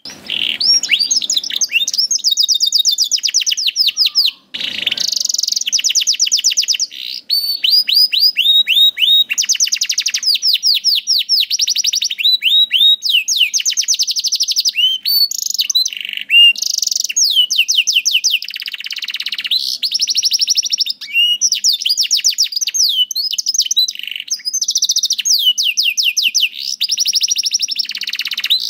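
Domestic canary in full song: a long, unbroken string of fast trills and rolls, each a rapid run of repeated high chirps, with only a couple of brief pauses.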